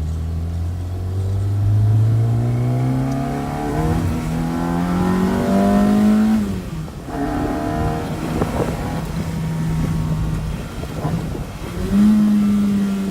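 Fiat 127 Moretti coupé's small inline-four engine pulling hard through the gears: the pitch climbs, drops at a shift about four seconds in, climbs again and falls away at about six and a half seconds, then runs fairly steadily before picking up again near the end.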